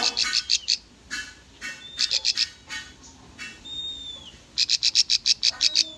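Bar-winged prinia (ciblek) song: rapid trilled bursts of sharp, high chipping notes, broken by a few thin whistled notes in the middle, played as a lure recording for caged birds.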